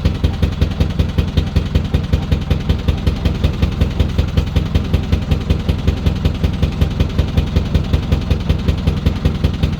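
Narrowboat's inboard diesel engine running steadily under way, a low, even beat of about six pulses a second. The owner says it is still going but not as efficiently as it should, with an engine fault that she means to have repaired.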